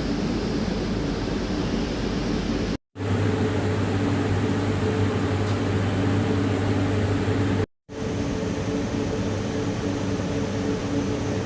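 Steady rushing noise with a low hum inside a Jakarta LRT light-rail train car. It drops out to silence twice for a moment, about three and eight seconds in.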